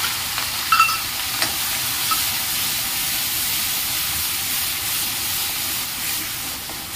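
Onion paste sizzling steadily as it fries in hot ghee in a kadhai, stirred with a metal ladle, with a couple of ladle clinks against the pan in the first second and a half.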